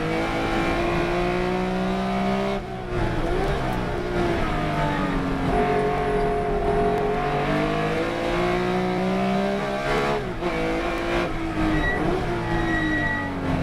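Race car engine running hard on track. Its pitch climbs under acceleration, breaks off sharply at a gear change about three seconds in, sinks, then climbs again with another break about ten seconds in.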